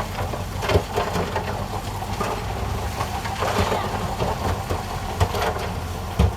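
Heavy machine's diesel engine running steadily, with scattered knocks and crunches of stone, the loudest near the start, about five seconds in and near the end.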